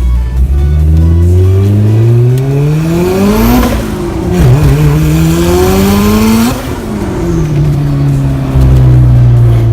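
DSM's turbocharged 4G63 four-cylinder through a side exit exhaust, accelerating hard. The pitch climbs, breaks at a gear change about four seconds in, climbs again, and drops away sharply about two-thirds of the way through as the car goes by and comes off the throttle.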